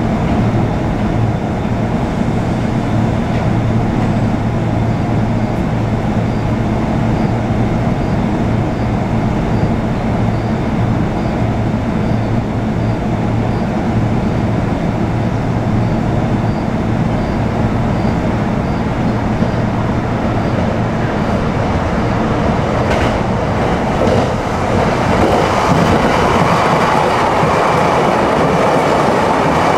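Electric train running past close by: a steady loud rumble of wheels on rail with a low hum, growing louder and brighter near the end.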